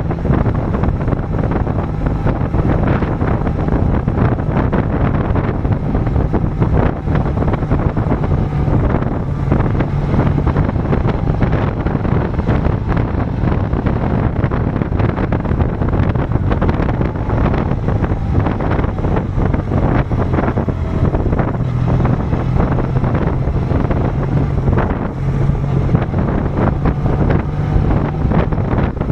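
BMW R1200CL's boxer-twin engine running at a steady road speed, with heavy wind noise buffeting the microphone.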